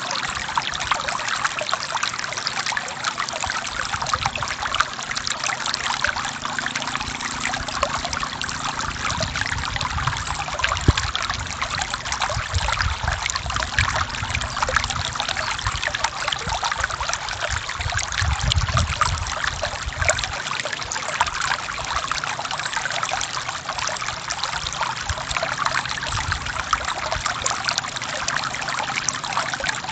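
Forest stream flowing steadily with constant splashing and trickling, a few deeper gurgling swells near the middle.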